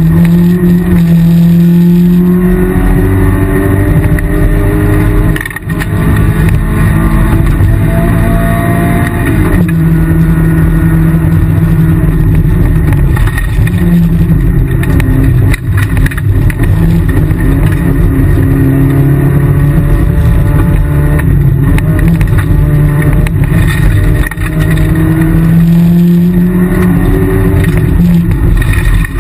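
Rally car engine at hard throttle, heard from inside the cabin, its pitch repeatedly climbing and dropping as it is driven through the gears on a stage. There are short dips in level about a third of the way in, near the middle, and again later on.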